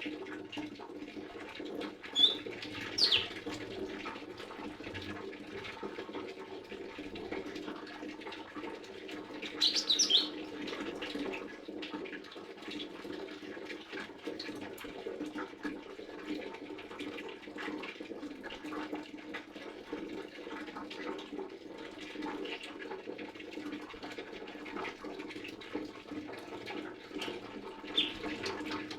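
Lesser green leafbird giving a few short, high, sweeping chirps: a pair about two to three seconds in, a quick burst around ten seconds, and another near the end. A steady low background hum runs beneath.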